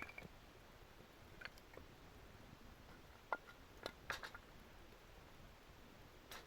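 Near silence with a few faint, scattered pops and crackles from a wood campfire, at irregular intervals.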